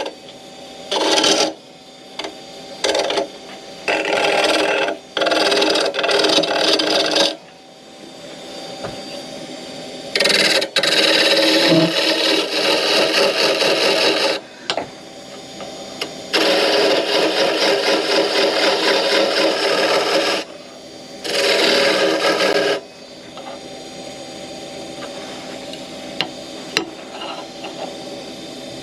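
Wood lathe running with a steady hum while a tool or abrasive is pressed against the spinning wood in repeated bursts of a second or several seconds, scraping and rasping. For the last few seconds only the lathe's hum goes on.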